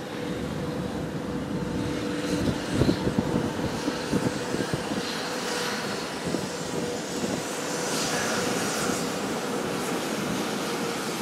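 Container freight train hauled by an EH500 electric locomotive passing on the viaduct: a steady rumble with a constant hum, and a run of wheel clacks over rail joints a couple of seconds in.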